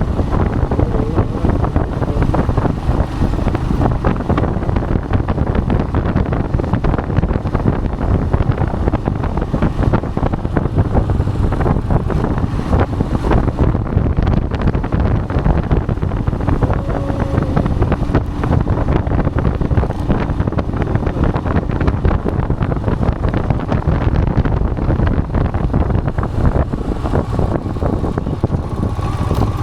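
Royal Enfield Himalayan motorcycle engine running while riding, heavily masked by steady wind buffeting on the microphone.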